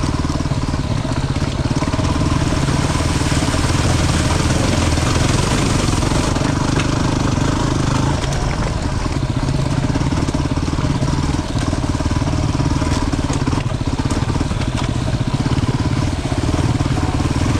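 Single-cylinder 250 cc dual-sport motorcycle engine running steadily on a trail ride, with a few scattered knocks.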